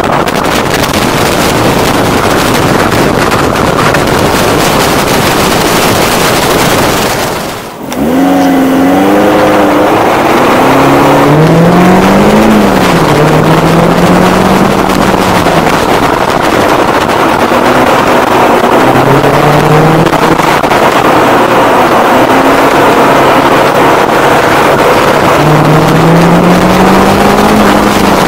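A car driven hard through an autocross course. For the first several seconds there is mostly a rush of wind and road noise over the microphone. After a brief dip about eight seconds in, the engine is clearly heard revving up and falling back again and again, with the wind noise still under it.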